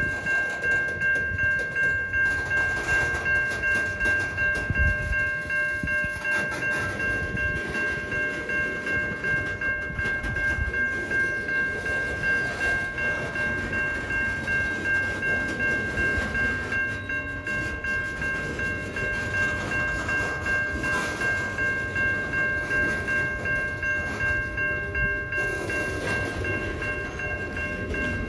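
Freight train of covered hopper cars rolling slowly through a grade crossing, wheels clicking and rumbling over the rails. Over it the crossing's warning bell rings steadily in an even pulsing rhythm.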